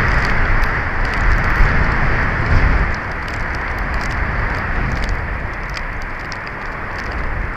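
Strong wind gusting over an outdoor nest-camera microphone: a continuous rushing with a low buffeting rumble that eases about three seconds in, and faint scattered ticks above it.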